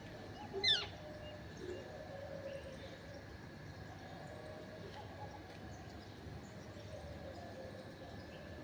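One short, sharp bird call that falls steeply in pitch, just under a second in, over faint steady outdoor background noise with a thin, steady high tone.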